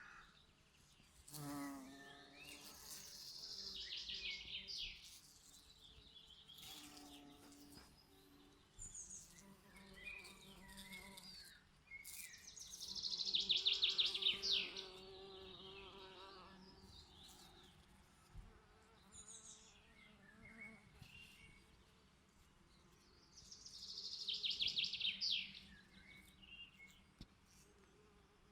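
Bees buzzing at flowers, a low wavering hum that comes and goes. Over it a songbird sings the same fast, trilled, downward-sliding phrase three times, about ten seconds apart; these phrases are the loudest sounds.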